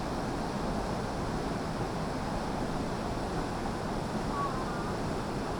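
Waterfall rushing steadily into its pool, a continuous even roar of falling water.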